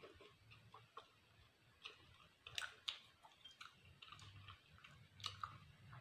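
Faint chewing, with scattered soft mouth clicks and smacks, over a low steady room hum.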